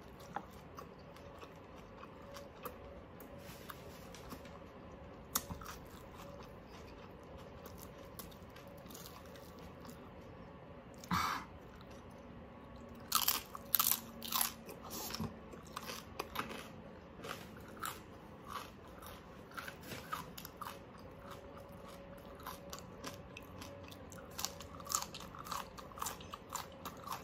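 Close-up chewing and biting into crispy roast pork skin. A cluster of loud crunches comes about halfway through, followed by a run of softer crunches and mouth clicks.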